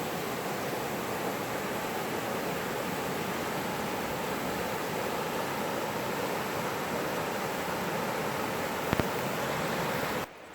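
Running water rushing in a steady, even wash. A single sharp click comes near the end, and the sound drops away suddenly just before the end.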